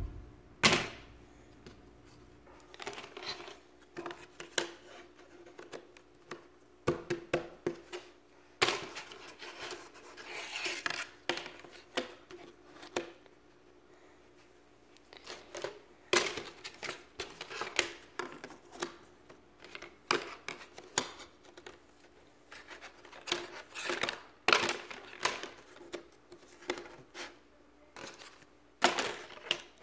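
Jigsaw puzzle pieces being handled and fitted together: irregular clicks and taps as pieces are set down and pressed into place, with short stretches of scraping and rustling as they slide over each other. There are a few brief pauses.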